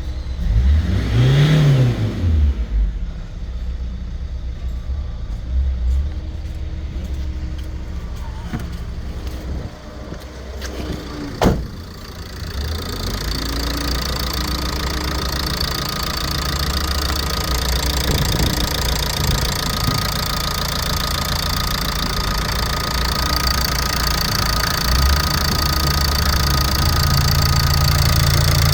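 Ford Transit Connect 1.8 TDCi four-cylinder turbodiesel engine running on test: a quick rev up and back down near the start, then idling. A single sharp click about eleven seconds in, and a hiss that builds over the second half.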